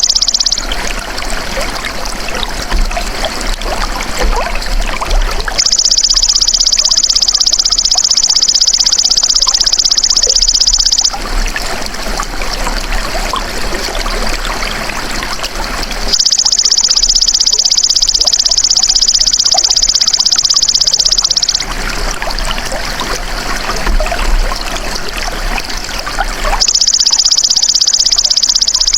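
Belalang emas (golden grasshopper) stridulating in high, buzzing trills, each lasting about five seconds, three times, with pauses of similar length between them. In the pauses, water trickles.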